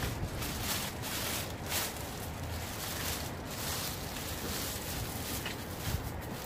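Irregular rustling and handling noises of bags and items being moved about, over a steady background hiss.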